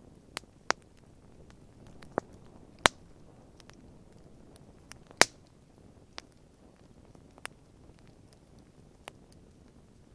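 Wood campfire crackling: irregular sharp pops and snaps over a faint low hiss, the loudest two about three and five seconds in.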